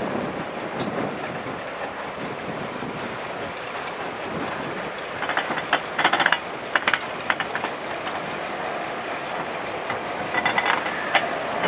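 Narrow-gauge train moving slowly, a diesel switcher pushing a dead steam locomotive: a steady rolling rumble of wheels on track, with clusters of sharp metallic clicks and clanks about halfway through and again near the end.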